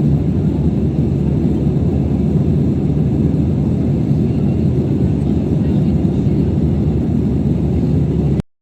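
Steady rumble of an Airbus A320 heard from inside the passenger cabin: engine and airflow noise, strongest in the low range, which cuts off abruptly near the end.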